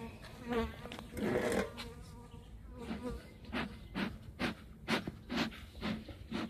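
Honey bees buzzing around an open hive in a steady hum, with a run of short sharp sounds about twice a second starting about halfway through.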